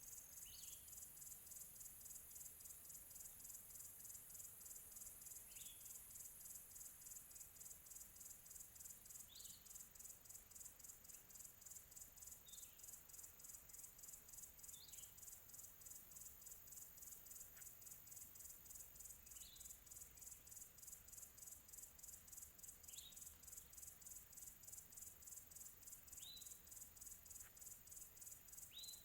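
Faint countryside ambience: crickets chirping in a steady, evenly pulsing high trill, with a distant bird giving a short falling call every few seconds.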